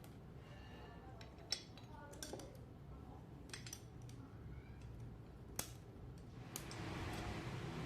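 Metal tools and parts clinking and tapping a few times, the sharpest knock about a second and a half in, then an even hissing noise from about six and a half seconds in.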